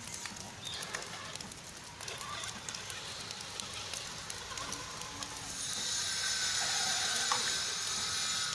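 Rain falling, a steady crackling patter of drops. About halfway through, a steady high hiss comes in and stays.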